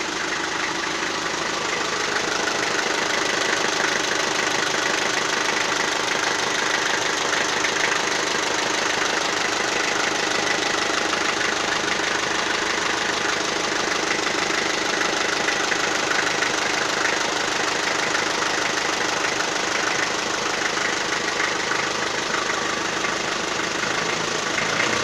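Toyota 4B diesel engine idling steadily once warm, the knock barely audible, leaving only a faint rattle like small balls rolling about. The owner likens the knock to early injection timing; it appears mostly when the throttle is blipped on the overrun.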